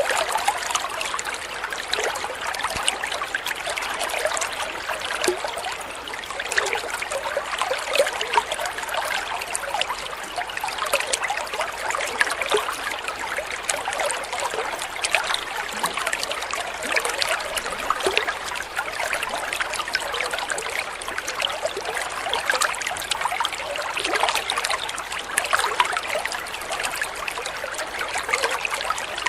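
Water trickling and splashing steadily, a continuous babble of small plips and gurgles.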